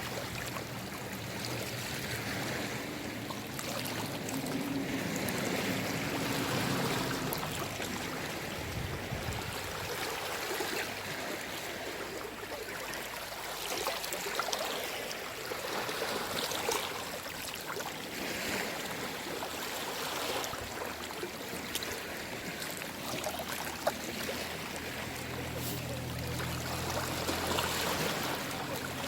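Gentle sea waves lapping and washing at the shore, swelling and easing every few seconds with small splashes. A low hum comes in near the end.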